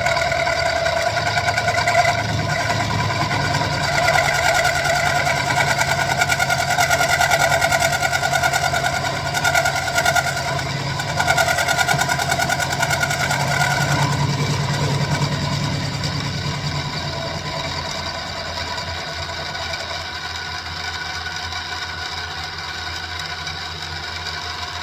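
Benchtop mini milling machine (SIEG X2 type) running with its end mill cutting across 1045 steel: a steady motor and gear whine mixed with the cut. It gets quieter about two-thirds of the way through, as the cut eases off.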